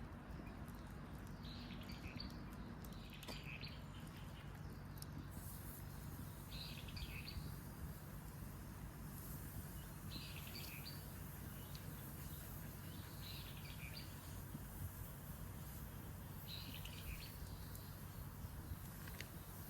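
A wild bird calling in short phrases, about six times, a few seconds apart, over a faint steady low hum.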